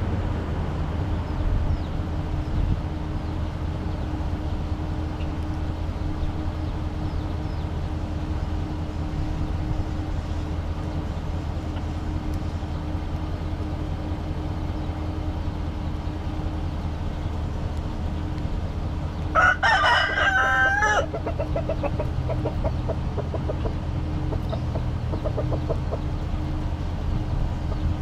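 A rooster crows once, about two-thirds of the way in, a single call of about a second and a half. It is followed by a few seconds of soft clucking, all over a steady low hum.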